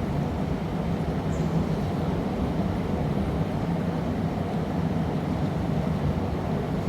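Steady low roar of a glassblowing studio's gas-fired furnaces.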